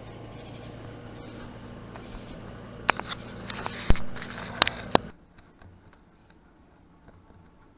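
Steady outdoor background noise with a low hum, broken by a quick run of sharp clicks and knocks in the middle. About five seconds in it cuts off suddenly to the faint hush of a quiet room.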